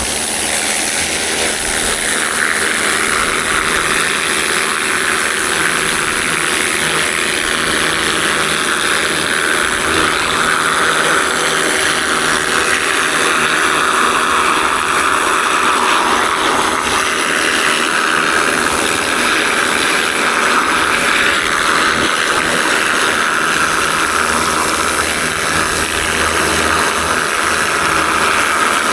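A machine running steadily, starting abruptly at the outset.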